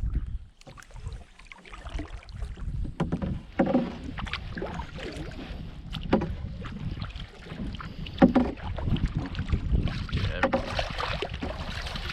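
Canoe paddle strokes in the water about every two seconds, over a steady rumble of wind on the microphone.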